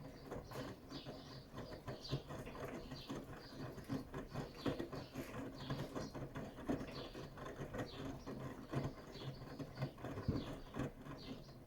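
Bosch Serie 6 washing machine with EcoSilence Drive motor turning its drum during a 90 °C boil wash: wet laundry tumbling and water splashing over a steady motor hum. The spell of tumbling stops near the end, as the drum pauses.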